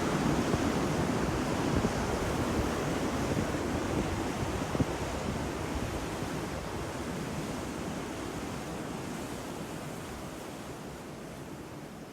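Ocean waves washing onto a beach, a steady surf rush that slowly fades out over the second half.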